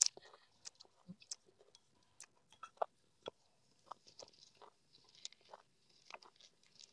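Faint chewing, with scattered small clicks and taps of people eating.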